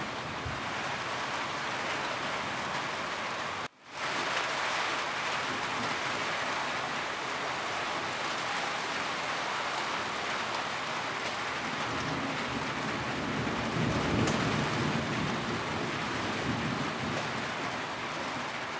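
Steady heavy rain falling on a roof, a dense even hiss. It cuts out for a split second just before four seconds in, and a low rumble of thunder swells about two-thirds of the way through.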